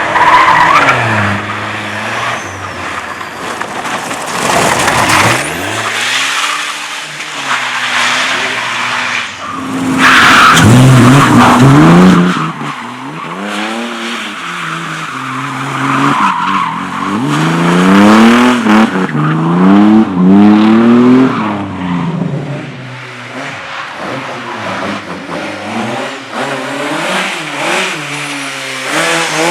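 Competition cars driven hard on a show-run course, engines revving up and dropping back again and again through gear changes and lifts, with tyres squealing and skidding. The loudest moments come around a third of the way in and again past the middle.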